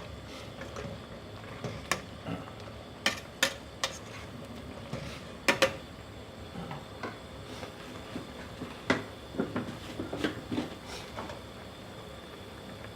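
Kitchen utensils clinking and knocking against a cooking pot and dishes, in scattered sharp strikes with a busier run of knocks about three quarters of the way through.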